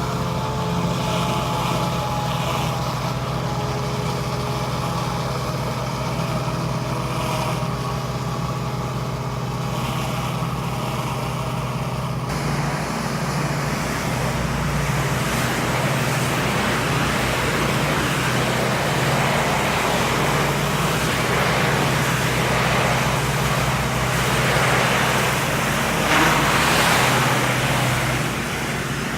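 Pressure washer running steadily under a constant low hum; about twelve seconds in, a broad hiss comes in and stays.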